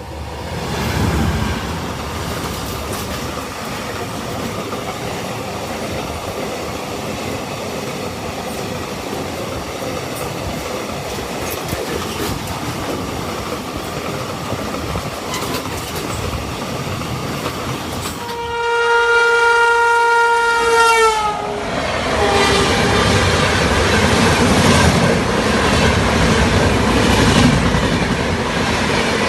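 Passenger train running with a steady rail noise. About two-thirds of the way in, the locomotive's horn gives one long blast of about two and a half seconds that sags in pitch as it dies away. After the horn the running noise is louder, with clickety-clack over the rail joints.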